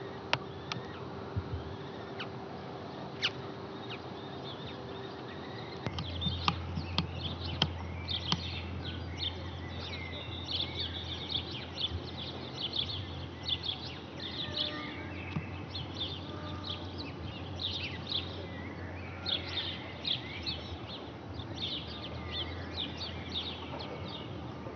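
Small birds chirping in quick, high bursts, dense from about six seconds in, over a steady low hum; a steady mid-pitched tone runs under the first six seconds.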